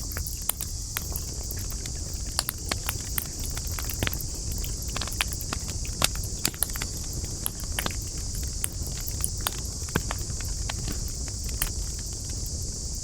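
Wood campfire crackling, with frequent sharp pops and snaps at irregular intervals over a steady high hiss and a low rumble.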